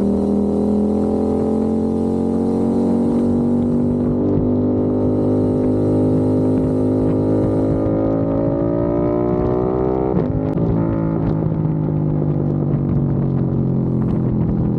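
Aprilia RS660's parallel-twin engine through a non-resonated Mivv X-M1 Evo exhaust, with a deep, bassy tone. The revs climb steadily for about ten seconds, then drop sharply and fall away.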